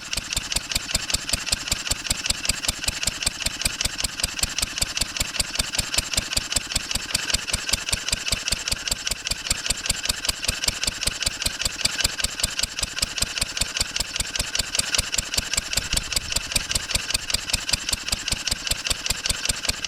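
1954 Wolseley WD8 single-cylinder stationary engine running steadily, with an even, rapid beat of firing strokes. Its cooling water is starting to boil.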